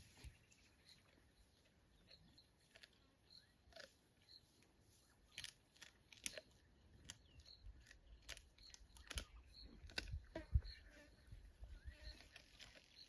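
Near silence in the bush: faint scattered clicks and ticks, with a faint high chirp repeating about twice a second.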